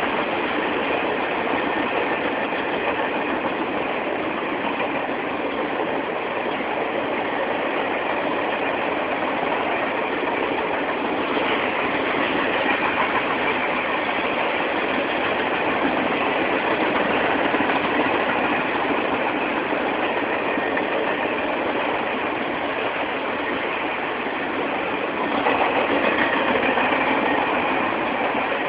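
Norfolk Southern Triple Crown RoadRailer trailers rolling past on their rail bogies: the steady rolling noise of steel wheels on the rails, louder for a few seconds near the end.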